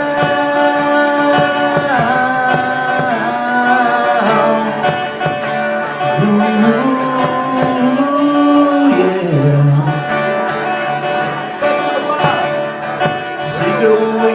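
Acoustic guitar playing with long held, wordless sung notes that glide slowly between pitches.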